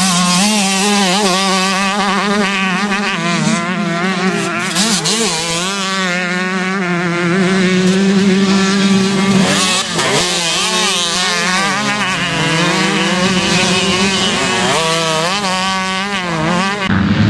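Motocross bike engines revving hard, their pitch climbing and dropping again and again with throttle and gear changes, over a steady low drone.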